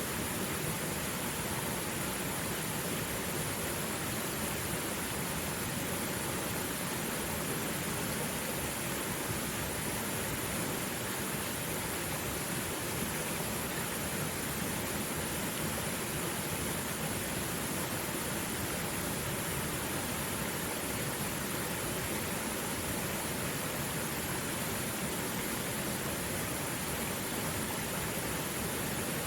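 Mountain stream flowing steadily over rocks, an even rushing of water with no birds.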